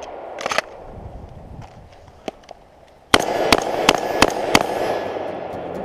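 A couple of clacks as the pistol is set down and the rifle taken up, then five quick shots from an AR-15-style rifle, about three a second, each followed by an echo.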